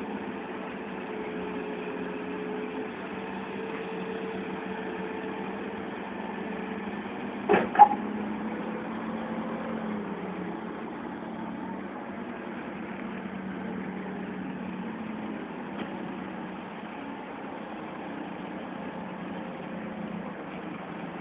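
Forklift engines running steadily, with two sharp knocks in quick succession about seven and a half seconds in.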